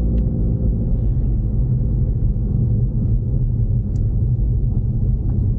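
Ford Mustang EcoBoost's turbocharged four-cylinder engine running steadily while driving, a low, even drone with road rumble heard from inside the cabin.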